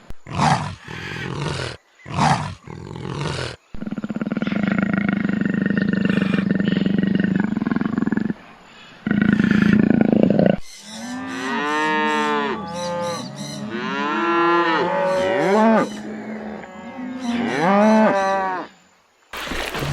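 A succession of different animal calls: a few short loud cries, then a long low call, then a rapid run of calls that rise and fall in pitch.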